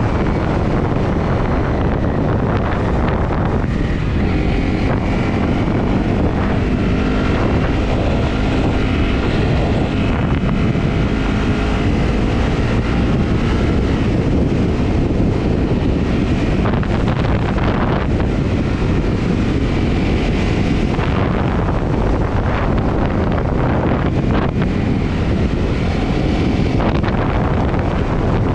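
Honda CRF250 motorcycle's single-cylinder four-stroke engine running on the move, its note shifting with the throttle, under heavy wind buffeting on the microphone.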